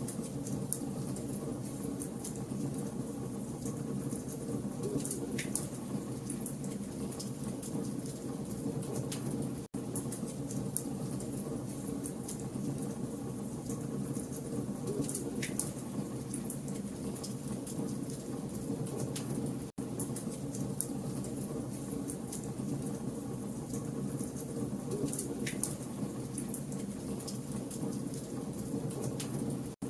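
Campfire of burning logs crackling: a steady rush of flames under a dense scatter of sharp pops and snaps. The sound cuts out for an instant about every ten seconds.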